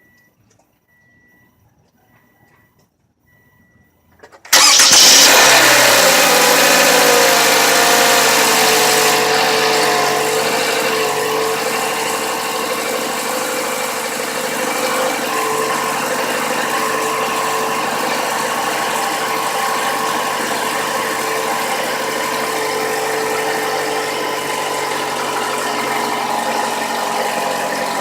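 2015 Toyota Camry engine cold-starting about four and a half seconds in, after a few faint beeps of a chime, then running at a high fast idle that falls and settles into a steady idle. The owner takes the noise at start-up for an engine knock or cam gear rattle, which the uploader puts down to oil pressure bleeding down in the variable cam timing or timing tensioners, or to cold piston slap.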